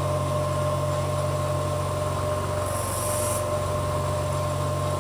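Bench grinder running steadily with a low hum and a constant whine while a dull drill bit is ground to sharpen its tip; a brief burst of hissing grinding a little past halfway.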